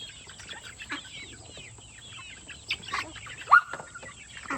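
A flock of chickens clucking and calling over one another, with one louder call about three and a half seconds in that rises and then holds.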